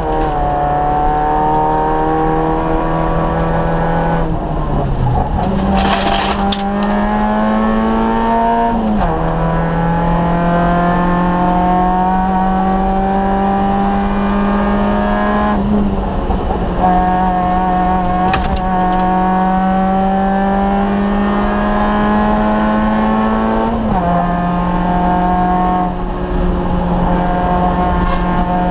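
In-cabin sound of a Citroën Saxo VTS rally car's 1.6-litre four-cylinder engine under hard acceleration. The pitch climbs steadily through each gear and drops back at the gear changes, four times. A few short bursts of noise cut through the engine sound.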